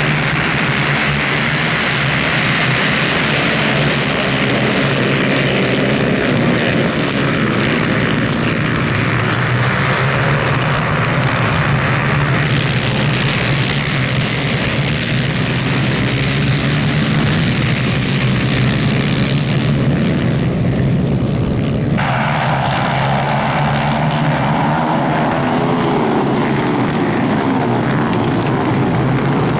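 250cc two-stroke superkart engines running at racing revs, a loud continuous engine note. The tone changes abruptly twice, about 12 and 22 seconds in.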